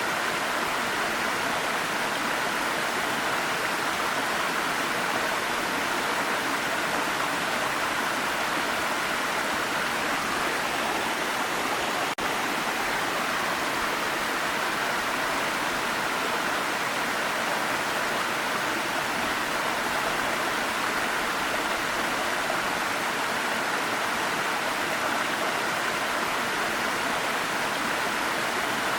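Waterfall: steady rushing, splashing water with no change in level, except for a momentary dip about twelve seconds in.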